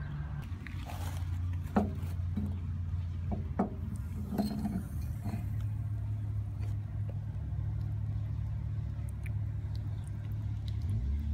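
Low, steady engine rumble of a motor vehicle, its pitch shifting slightly a few times, with a few small knocks in the first five seconds.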